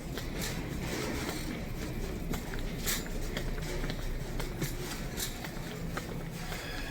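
Shopping cart rolling through a store, its wheels rattling, with scattered sharp clicks and footsteps over a steady low hum.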